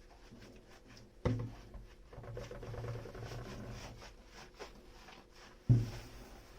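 Kitchenware being handled on a counter: two sharp knocks as things are set down, about a second in and near the end, with softer rubbing and clinking between them.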